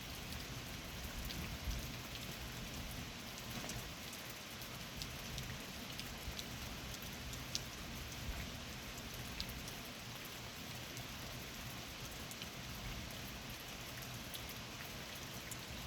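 Steady rain falling during a thunderstorm, with scattered individual drop ticks over an even hiss.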